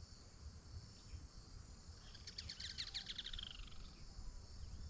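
A wild bird sings a fast run of notes that falls in pitch, about two to three and a half seconds in, with a few faint chirps around it over a low outdoor rumble.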